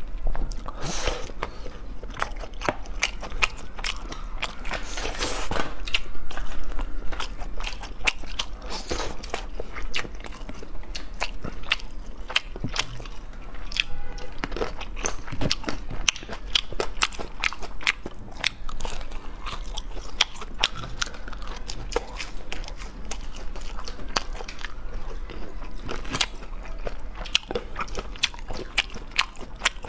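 Close-miked crunching and chewing of crispy fried food, with many sharp crunches in quick succession.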